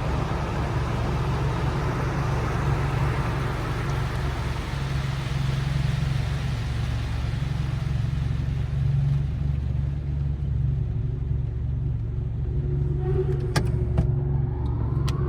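Steady rushing of the touch-free car wash's spray or air, heard over the low rumble of the Mitsubishi Lancer Evo X's idling engine. The rushing dies away about ten seconds in. A few sharp clicks follow, and near the end the engine note rises as the car pulls away.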